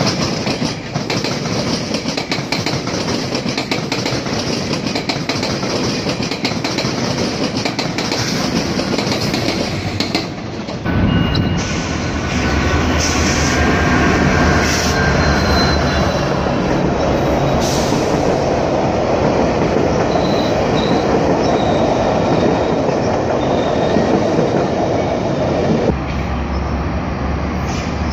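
GO Transit bilevel commuter trains rolling by on the tracks: steady wheel and rail noise with a few faint, high wheel squeals. The sound changes suddenly about eleven seconds in, where a diesel locomotive-hauled train runs past with its engine adding a low steady hum.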